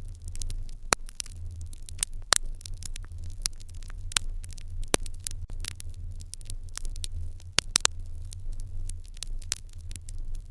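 Wood fire crackling in an irori hearth: irregular sharp pops and snaps, several a second with a few louder ones, over a low steady hum.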